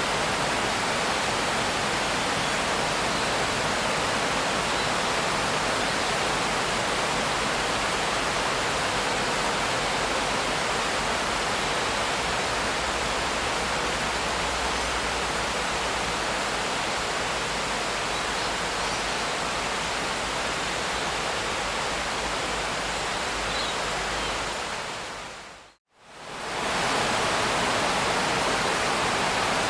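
Steady, even rain noise with no single drops standing out. Near the end it fades out to a moment of silence and then fades back in.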